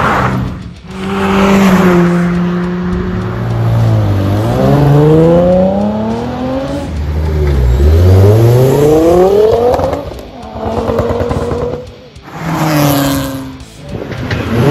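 Modified cars driving past one after another, their engines revving hard several times with the pitch sweeping up.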